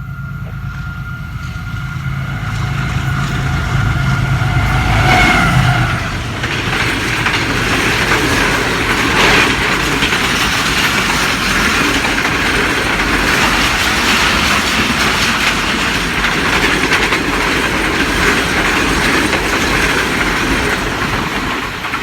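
A train passing close by. For about the first six seconds a steady high tone sounds over a low rumble as the locomotive approaches and goes by. After that the carriages roll past as a continuous loud clatter of wheels on the rails.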